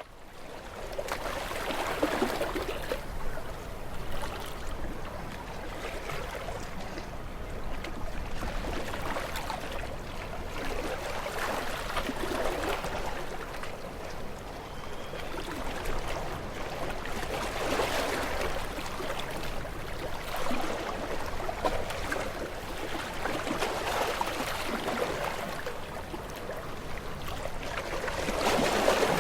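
Ocean waves washing on a shore: a continuous rush of water that fades in at the start and swells every few seconds as waves break.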